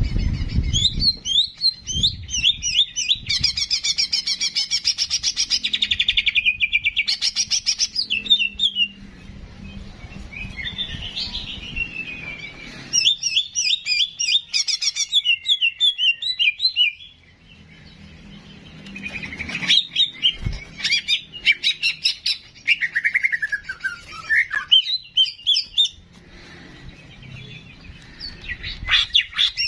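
Cucak jenggot singing: phrases of fast, high chirps and trills broken by short pauses, with a falling whistled note about three-quarters of the way through.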